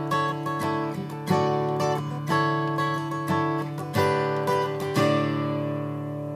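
Acoustic guitar playing a sequence of chords, a new chord or picked note every half second or so over a low note that keeps ringing, ending on a chord about five seconds in that rings out and fades.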